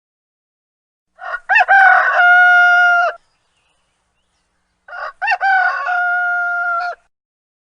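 A rooster crowing twice, each crow about two seconds long and ending in a long held note.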